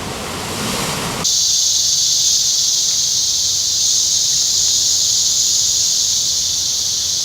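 A rushing ambience for about the first second, then a sudden cut to a loud, steady, high-pitched insect chorus from the rainforest.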